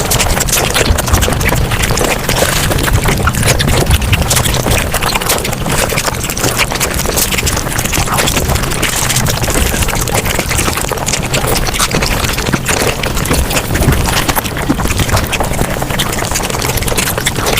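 Mukbang eating sounds sped up fivefold: chewing, smacking and slurping run together into a dense, unbroken stream of rapid wet clicks.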